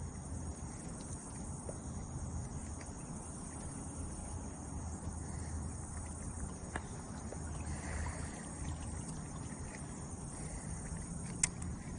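Insects trilling steadily over a low, even rumble, with one sharp click near the end.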